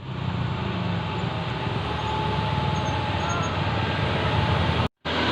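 Dump truck's diesel engine running steadily, with the sound cutting out for a moment near the end.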